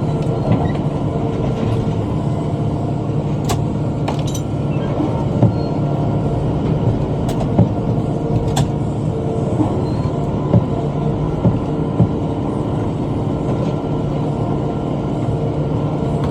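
Kubota M5 tractor's diesel engine running steadily while it pulls a rotary cutter (bush hog), with scattered sharp knocks.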